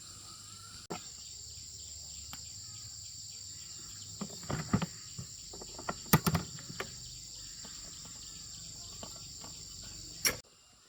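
Insects, crickets, keeping up a steady high-pitched chirring. A handful of sharp knocks, the loudest sounds, come in the middle.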